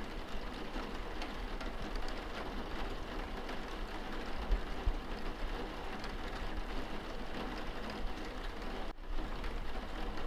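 Steady rain on window glass heard from indoors: a dense patter with a low rumble underneath. About nine seconds in there is a brief dropout.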